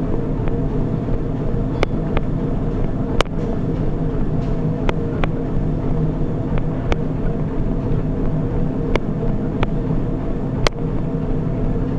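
Treadmill running with a steady motor hum and belt whir, with sharp clicks at irregular moments.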